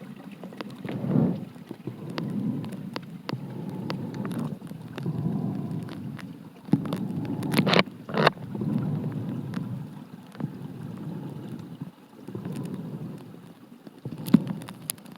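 Mountain stream water surging and sloshing, heard muffled from underwater in uneven waves, with a few sharp clicks about halfway through and near the end.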